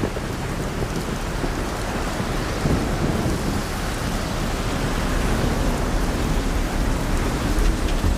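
Thunderstorm ambience: steady light rain with wind, over a low rumble of thunder.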